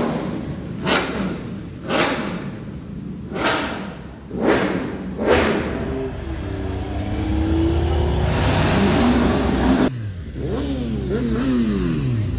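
Car engines revving and accelerating, with five sharp bangs over the first five seconds. After that an engine revs up and down, the sound cuts off abruptly about ten seconds in, and then revs fall away.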